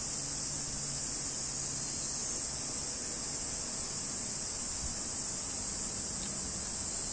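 Large brown cicada (aburazemi) singing: a steady, unbroken high-pitched buzz.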